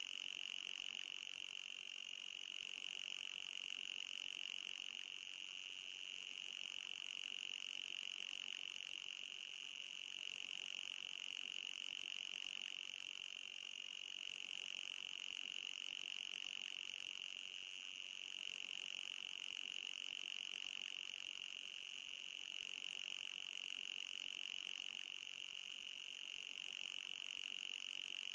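Electronic anti-mosquito repellent tone: a steady, high-pitched whine with a fainter, higher band above it, wavering slightly now and then.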